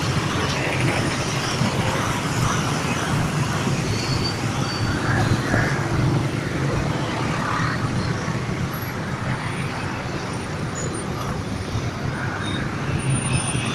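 Steady vehicle rumble and noise with no clear start or stop, easing slightly about two-thirds of the way through.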